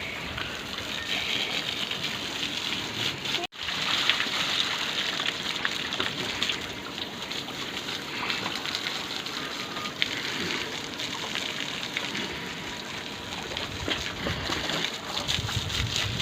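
Steady rushing of running water, cutting out for an instant about three and a half seconds in.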